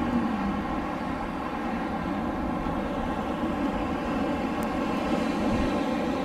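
Steady rushing wind, with a faint wavering howl just at the start.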